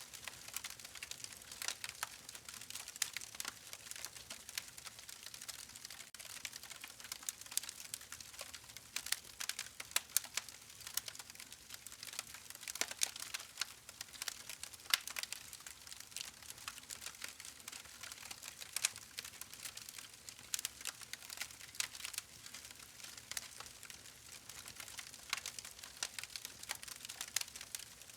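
Campfire crackling: burning wood gives off a steady stream of irregular sharp pops and snaps, several a second, over a faint hiss.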